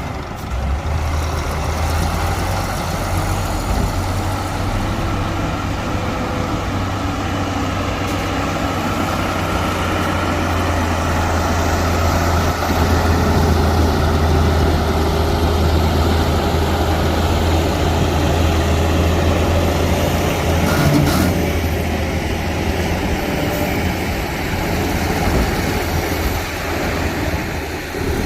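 Heavy earthmoving machine's diesel engine running steadily under work, with a strong low hum that grows a little louder in the middle. There is one brief knock about twenty seconds in.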